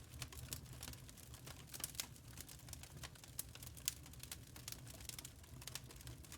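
Wood fire burning in a fireplace, crackling with irregular small pops and snaps over a low steady rumble.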